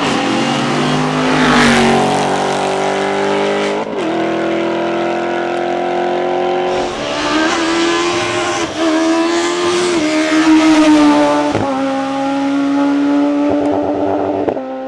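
Hill-climb racing car's engine at high revs, its pitch climbing and dropping in steps through several gear changes, with a sharp crack late on.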